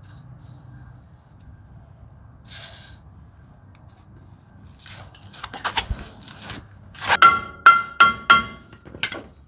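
A short hiss of an aerosol brake-cleaner spray about two and a half seconds in. Then metal parts and tools clink and rattle, ending in about four sharp ringing metallic taps near the end.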